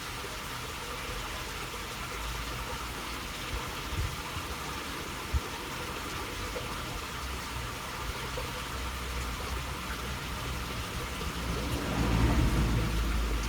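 Steady rushing of water flowing through a small waterway channel. A low rumble swells about twelve seconds in, and there are two short knocks in the first half.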